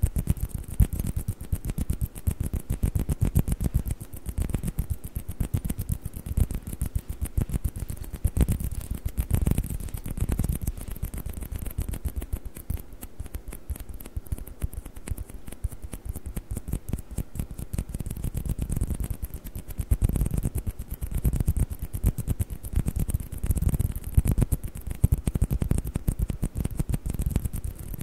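Rapid, continuous fingertip tapping on table tennis balls, a dense run of light clicks that swells and eases in waves.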